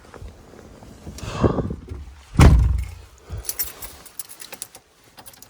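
Pickup truck door shut with one heavy low thump about two and a half seconds in, after a brief rustle, followed by a scatter of light clicks and jingles like keys.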